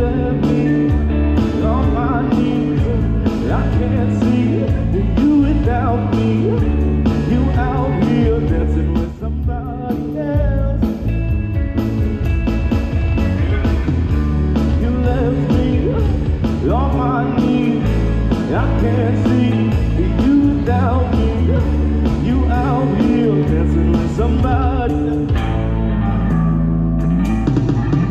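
Live indie rock band playing: electric guitar, bass and drums, with a lead line sliding up and down in pitch over the chords. The band briefly thins out about nine seconds in, then comes back in full.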